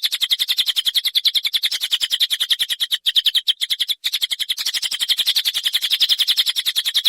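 Songbird giving a continuous, fast, rough rattling trill of about a dozen notes a second, the harsh 'besetan' type of song used to tutor contest birds. There are brief breaks about three and four seconds in.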